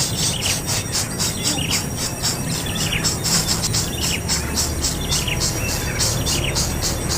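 Insects chirping in rapid, even pulses, about five a second, with short falling bird chirps about once a second over a low steady hum.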